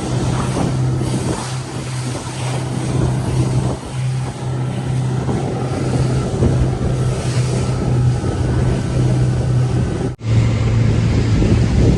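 Mercury outboard motor running steadily as the boat travels at speed, a constant low engine hum with wind and water rushing over it. The sound breaks off for an instant about ten seconds in, then picks up again the same.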